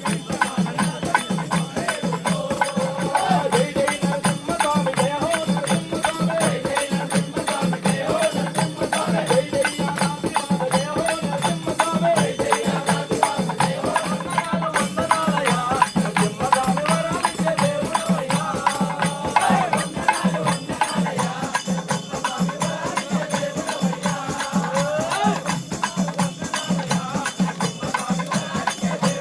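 Ayyappa devotional bhajan: sung melody over a steady percussion beat, with jingling hand percussion.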